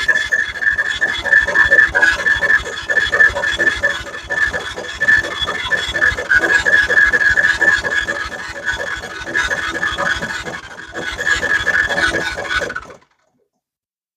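Honda FourTrax 300's electric starter cranking the engine over: a steady whine with a fast, even chug, stopping suddenly near the end. With the compression gauge fitted, the engine spins over with no compression, which the owner takes to mean the top end is shot.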